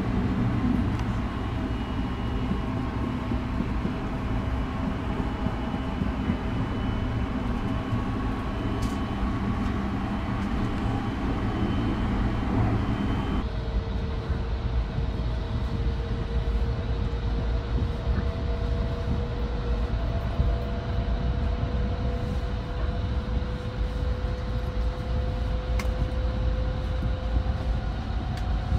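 Running noise inside a carriage of the Sunrise Express, a 285 series electric sleeper train: a steady low rumble from the running train. The noise changes abruptly about halfway through, and after that a faint whine slowly rises in pitch.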